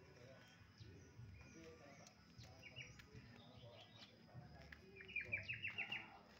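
A small bird chirping in a quiet yard: a few scattered high chirps, then about a second from the end a quick run of about eight short chirps in a row.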